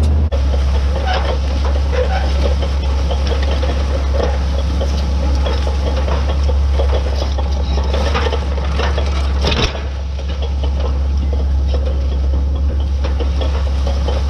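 White 2-150 tractor's Caterpillar V8 diesel engine running steadily under load, a constant low drone, with irregular rattling and clanking over it.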